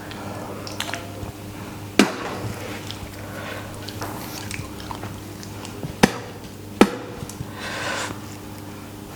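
Someone chewing raw radish, with three sharp clicks, one about two seconds in and two close together around six to seven seconds in, over a steady low hum.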